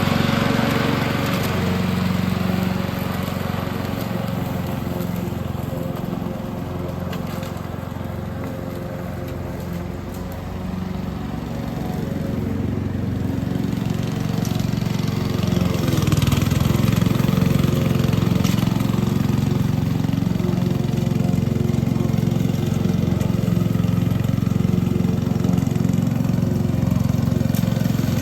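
Small petrol engine of a lawn-care machine running steadily. It grows quieter for a few seconds, then louder again from about halfway through.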